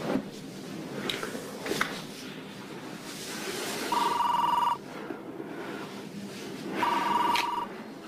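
Electronic telephone ring, a trilling tone that sounds twice, about halfway in and again near the end, each ring under a second long.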